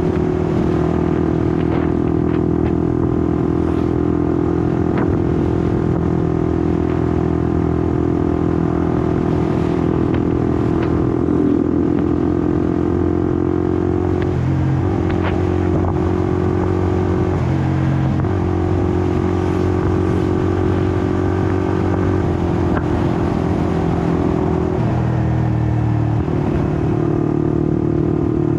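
Honda CBR150R's single-cylinder engine running under way at steady revs. The engine note holds steady, then dips briefly a few times in the second half, as when the throttle eases or a gear is changed.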